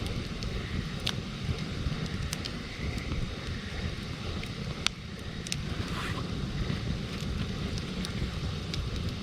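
Campfire crackling, with scattered sharp pops, the strongest about five seconds in, and a brief hiss a second later. Wind rumbles on the microphone throughout.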